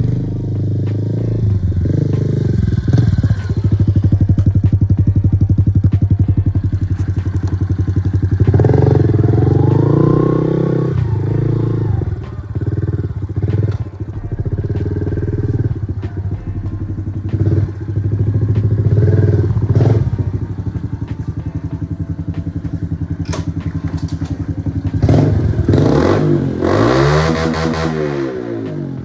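Honda CRF110's small single-cylinder four-stroke engine running through a BBR D3 aftermarket exhaust, its pitch rising and falling with the throttle and dipping briefly between revs. Near the end the engine note climbs sharply and then falls away.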